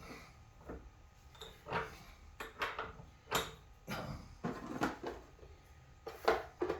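Small metal parts and tools being handled and set down on a workbench: a string of irregular knocks and clinks, the loudest near the end.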